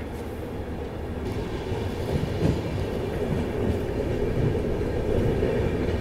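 Passenger train coach rolling on the track, with a steady rumble of wheels on rail and irregular knocks. It grows gradually louder as the train gathers speed after pulling out of a station.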